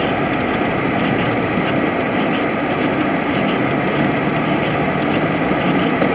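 Steady in-cabin driving noise of a Dodge Challenger ploughing through snow: the engine running under way, with tyre and road noise as a constant rumble and hiss.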